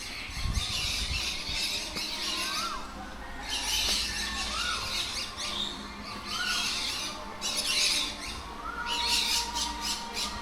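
Birds squawking harshly in repeated bursts, with a short rising-then-falling whistled call that comes back about every one and a half seconds.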